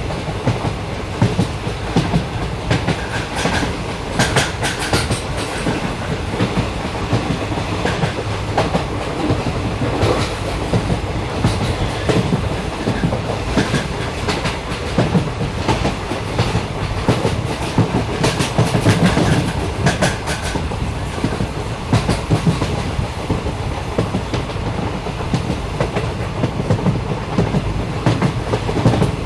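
A train running along the track: a steady rumble with irregular clicks and knocks from the wheels over the rails.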